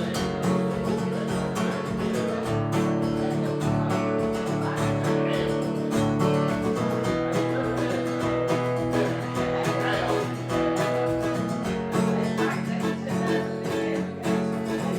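Acoustic guitar strummed in a steady rhythm with accompanying instruments: the instrumental intro of a song before the singing starts.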